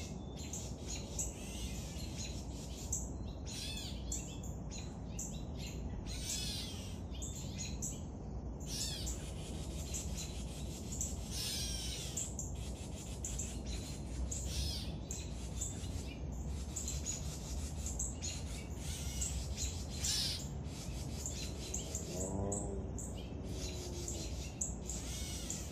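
Songbirds chirping and calling over and over, short high notes and trills, over a steady low rumble. About three-quarters of the way through, a single lower, harsher call stands out.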